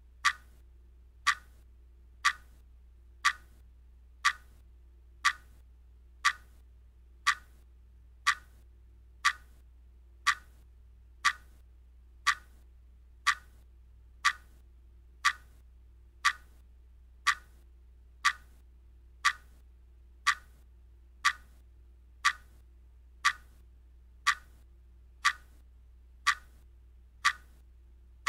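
Clock ticking, one sharp tick each second, as a countdown timer runs down. A faint steady low hum lies underneath.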